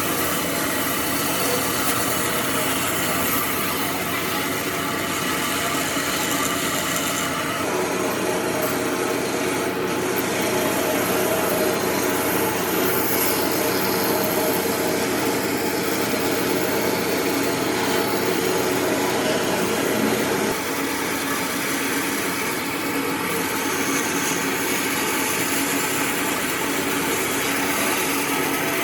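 A power tool working wood: a steady motor tone under continuous abrasive cutting on wood. The sound changes abruptly about seven seconds in and again about twenty seconds in.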